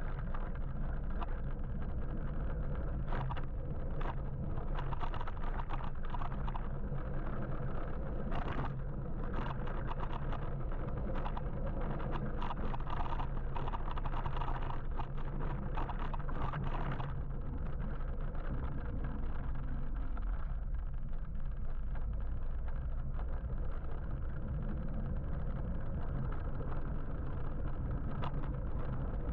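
Steady road and traffic noise heard from a moving electric motorbike, with a strong low rumble and scattered clicks and knocks through the first half.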